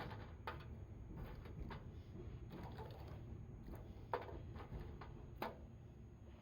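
Pine cones and twigs of a campfire crackling and snapping: irregular sharp snaps, the loudest two about four and five and a half seconds in, over a low steady rumble.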